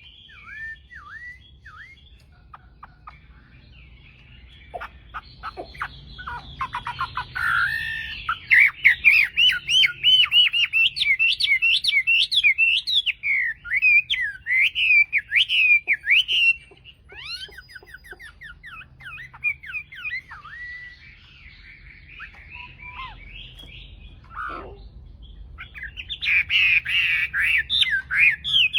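Chinese hwamei singing a varied song of rapid gliding whistles and trills. It starts soft, runs loud for several seconds about a third of the way in, drops back, and turns loud again near the end.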